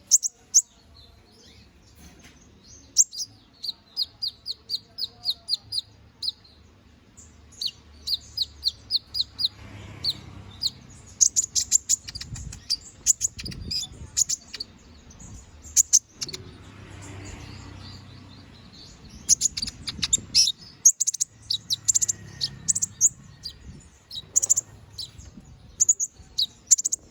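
Domestic canary singing a long, nonstop chattering song: strings of short high chirps and fast trills, with brief pauses between phrases.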